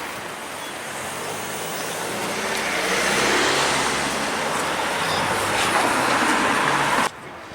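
Street traffic: the noise of a road vehicle with a low engine hum passing close, swelling to its loudest in the middle and cut off suddenly near the end.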